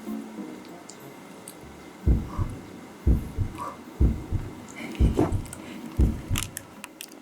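Heartbeat sound effect: five low double thumps, about one a second, starting about two seconds in.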